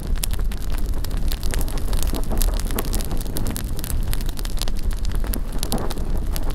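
Bonfire crackling with many quick sharp pops, over a low rumble of wind on the microphone.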